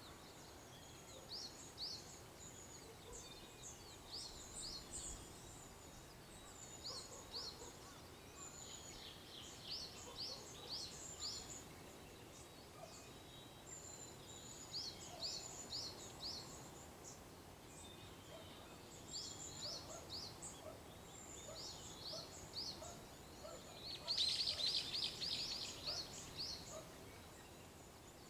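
Small songbirds singing in the dawn chorus: short high chirps in quick groups of three or four, repeated over and over, with a louder rapid run of notes near the end, over a faint outdoor hiss.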